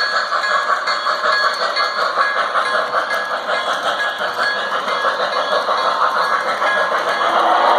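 Model train running along the layout's track.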